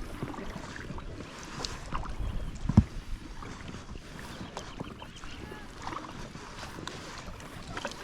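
Kayak paddling on a lake: paddle blades dipping and splashing with water dripping and trickling, and one sharp knock a little under three seconds in.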